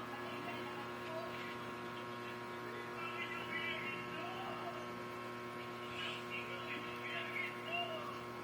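Steady electrical hum made of several steady tones, with faint wavering background sounds now and then.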